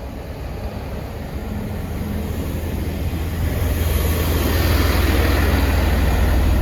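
Class 165 diesel multiple unit at the platform: a low diesel rumble with a noisy hiss above it, growing steadily louder.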